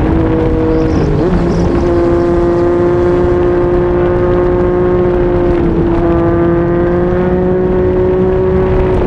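Yamaha MT-09's three-cylinder engine through a Yoshimura R55 slip-on exhaust, running steadily under way. Its pitch wavers briefly about a second in, dips slightly near the middle, then creeps slowly up. Steady wind rush runs underneath.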